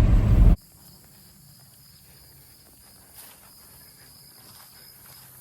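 Low vehicle rumble that cuts off abruptly about half a second in, giving way to a faint, steady high-pitched chirring of insects with scattered light rustles.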